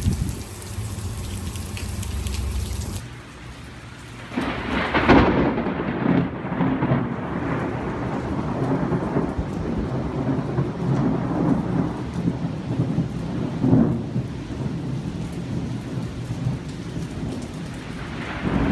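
Thunder in a rainstorm: a sudden loud thunderclap about four to five seconds in rolls on as a rumble for several seconds, with a sharper crack later and another clap starting near the end, over steady rain.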